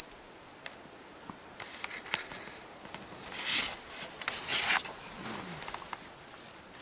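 Someone pushing through scrub on foot: leaves and branches brushing against clothing, with scattered twig snaps and two louder swishes about three and a half and four and a half seconds in.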